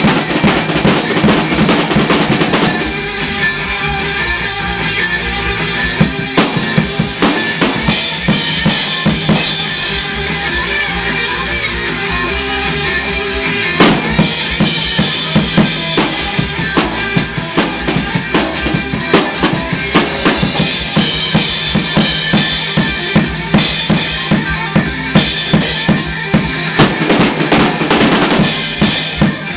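Rock drum kit playing a busy beat, with bass drum and snare hits, along with other rock music.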